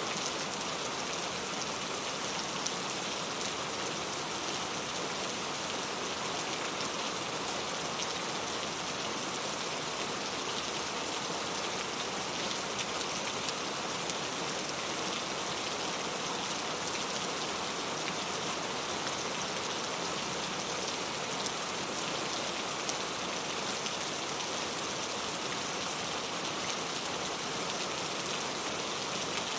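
Steady rain falling on surfaces, an even hiss of many drops with fine pattering, unchanging throughout.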